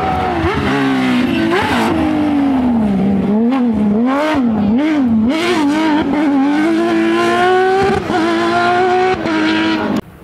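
Porsche 911 rally car's flat-six engine at high revs, its pitch rising and falling quickly several times, then climbing steadily under acceleration. The sound cuts off abruptly near the end.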